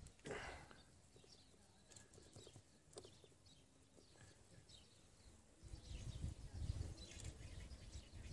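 Faint outdoor quiet with small birds chirping here and there in short high calls. A low rumble comes in a little past halfway.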